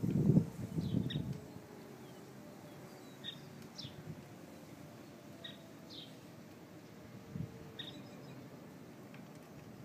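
A bird chirping repeatedly, short high notes that drop in pitch, one every second or two, over a steady background hiss. A low rumble is heard in the first second or so.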